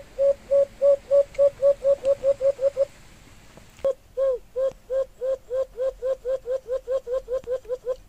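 A bird calling in two accelerating series of short, low hooting notes, each run starting at about three notes a second and speeding up to about five; a pause of about a second separates the runs, and a sharp click comes just before the second run.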